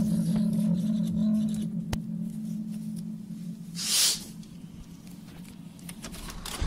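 A low, steady drone that fades away about three seconds in, followed by a short hiss about a second later.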